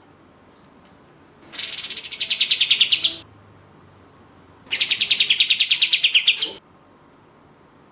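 Kapas tembak (katem) song: two fast rattling trills of about ten notes a second, each nearly two seconds long and about a second and a half apart, with the pitch falling through each trill.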